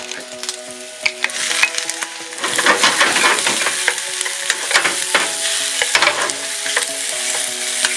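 Shrimp, scallops and squid sizzling with onions in hot olive oil in a frying pan, stirred with a wooden spatula that clicks and scrapes against the pan. The sizzling grows louder about two and a half seconds in.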